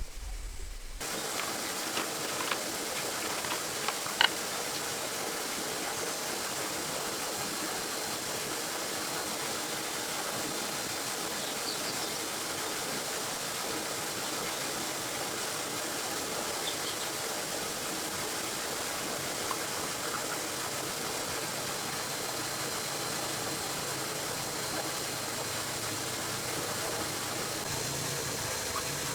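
A steady, even hiss with a few sharp clicks in the first four seconds, the loudest about four seconds in.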